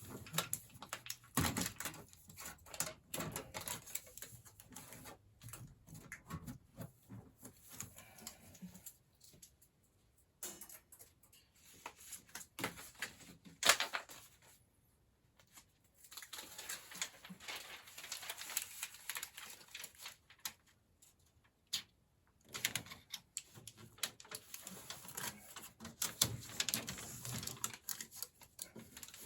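Irregular clicking, tapping and rattling from hand work on a furnace's sheet-metal ductwork, with a few short pauses.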